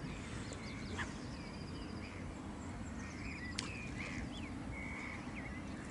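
Birds giving short, scattered chirps over a steady low background rumble, with a couple of faint clicks.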